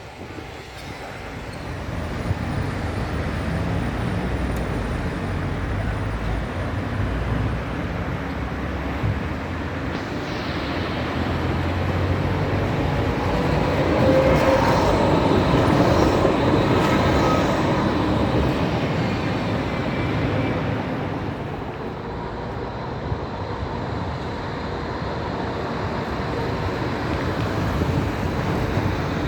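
City street traffic with a tram passing. The sound swells to its loudest about halfway through, with faint whining tones as the tram goes by.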